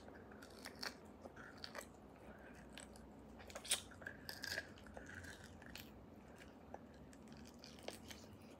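Close mouth sounds of chewing and gnawing on a roasted beef marrow bone: scattered wet smacks and clicks, the loudest a little under four seconds in.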